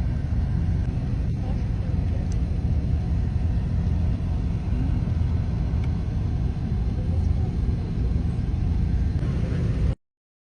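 Steady low rumble of wind buffeting the microphone in a rainstorm, with a fainter wash of outdoor noise above it; it cuts off abruptly near the end.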